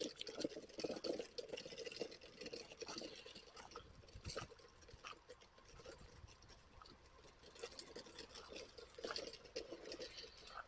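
Faint, irregular crunching and clicking of a mobility chair's wheels rolling along a trail path, with small rattles from the chair.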